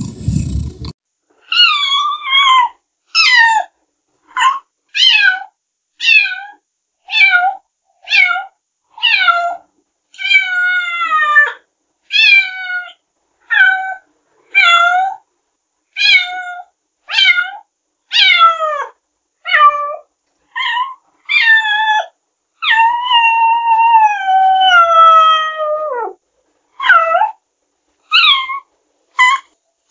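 Domestic cat meowing again and again, about one meow a second with short silences between, each call falling in pitch. A few are long and drawn out, the longest near the end.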